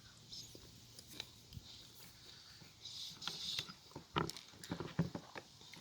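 Quiet eating sounds: chewing and utensils clicking against a dish, with several sharp clicks in the second half.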